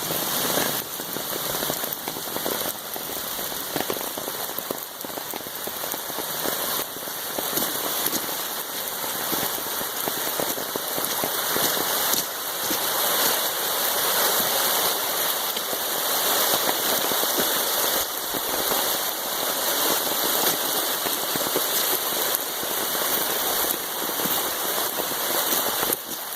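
Steady rain falling, with a dense patter of drops hitting the ground and water.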